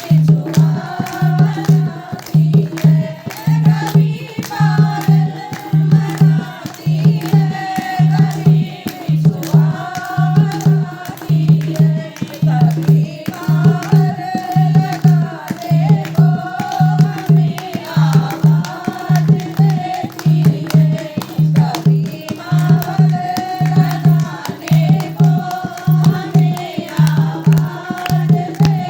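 Devotional Hindi song to the Mother Goddess: singing over a steady, repeating drum beat.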